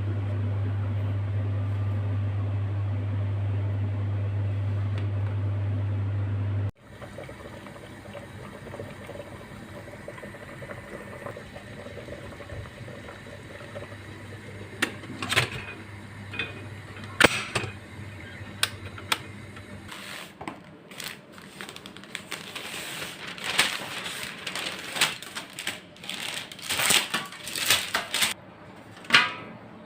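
A kitchen appliance's steady electric hum cuts off suddenly about seven seconds in. Later come the clinks and clatter of dishes and utensils being handled, growing busier toward the end.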